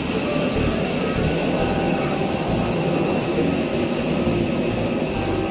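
Airliner jet engines running, a steady rushing noise with high whining tones held throughout.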